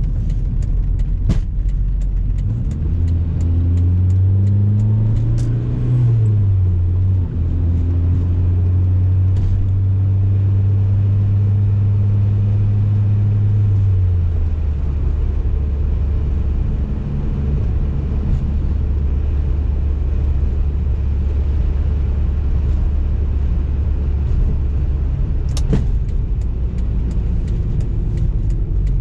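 BMW E30 M3's S14 four-cylinder engine heard from inside the cabin, pulling up through the revs. The pitch drops about six seconds in at an upshift, holds steady, then steps down again near the middle to a lower steady cruising drone. A few sharp clicks are heard over the top.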